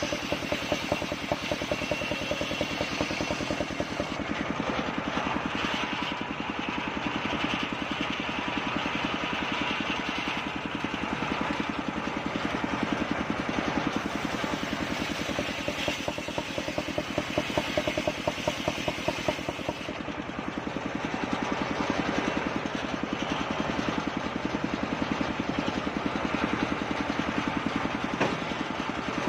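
Engine-driven homemade circular sawmill running steadily, with a fast, even engine beat throughout.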